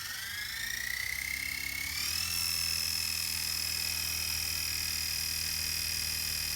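XK K110S mini RC helicopter, with a brushless tail-motor upgrade, spinning up. The high motor whine starts abruptly and rises in pitch for about two seconds, then holds at a steady pitch.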